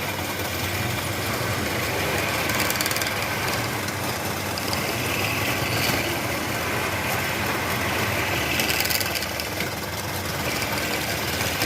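Wood lathe running steadily, with bursts of hissing higher noise that come and go, around three seconds in and again near nine seconds.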